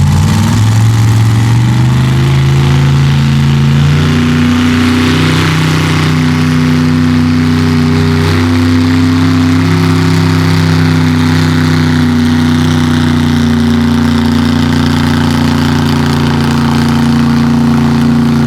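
Mega truck engine pulling a weight sled at full throttle: its pitch climbs over the first few seconds, then holds high and steady under load, and drops off right at the end as the run ends.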